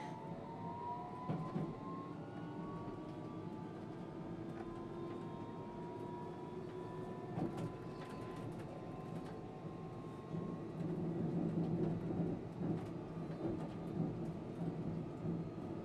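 London Underground electric train running on the rails: traction motors whining in a rising pitch as it gathers speed, over a steady rumble of wheels with scattered clicks from rail joints. The running noise grows louder and rougher for a few seconds near the end.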